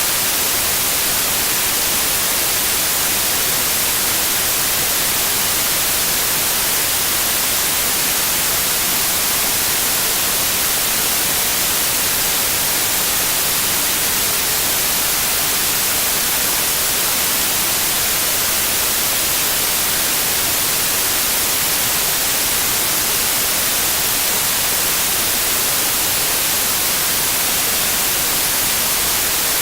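Synthetic white noise: a steady, unbroken hiss with no change in level.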